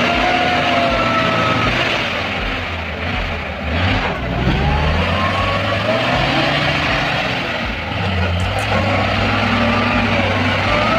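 Heavy truck engine running with a whine that rises and falls in pitch several times over a steady low hum.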